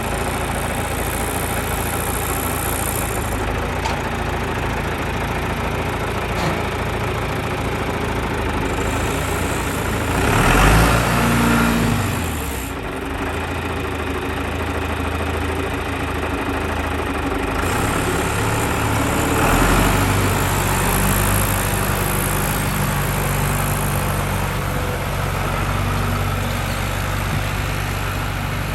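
John Deere 2750 tractor's diesel engine running steadily, its speed rising and dropping back about a third of the way in, and swelling again about two-thirds of the way through.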